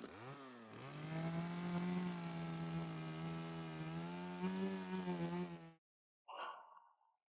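Chainsaw engine revving up, then running at a high, steady speed. It cuts off abruptly after about five and a half seconds.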